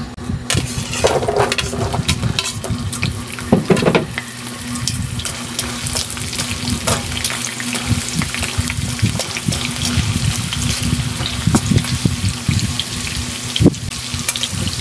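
Carrot chunks hitting hot cooking oil in a nonstick frying pan: sizzling starts about half a second in and runs on steadily as the carrots fry. Metal tongs turn the pieces, with scattered sharp clicks against the pan.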